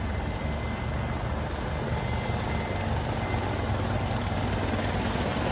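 Several helicopters flying in formation: a steady drone of rotor and engine noise.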